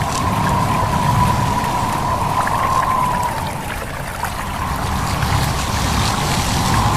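A stream babbling and trickling steadily over a low rumble of wind.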